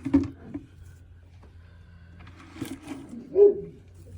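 A hen calling once, a short loud call with a bending pitch about three seconds in, after a few light clicks and rustles.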